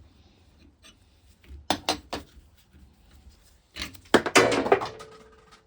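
Metal hand tools clinking: a few light clicks about two seconds in, then a louder clatter of metal about four seconds in, with a short ringing tone dying away after it.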